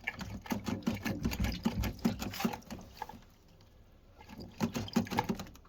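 Water splashing and pattering with short clicks of handling at a washing machine's drain filter opening, in two spells with a quieter gap between.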